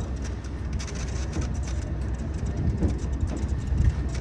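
Tourist trolley train running on the rails: a steady low rumble with light clicks and knocks.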